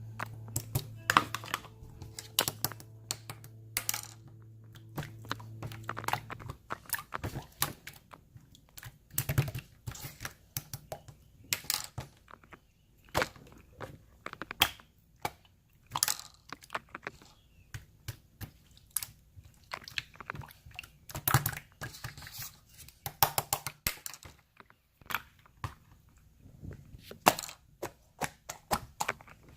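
Slime being squeezed and stretched by hand, making irregular sticky clicks and small pops. A low steady hum stops about six seconds in.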